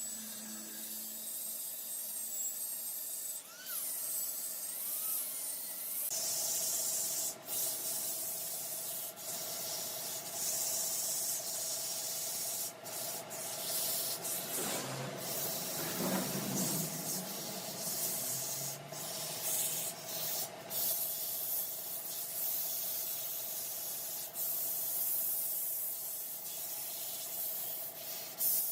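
Large woodworking lathe spinning a mahogany workpiece, with a steady motor hum and a continuous rubbing hiss of abrasive or tool against the turning wood. The hiss grows louder about six seconds in.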